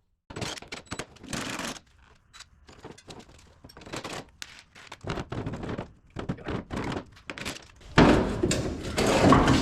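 Irregular handling noises: a run of scrapes, rustles and knocks, louder and denser from about eight seconds in.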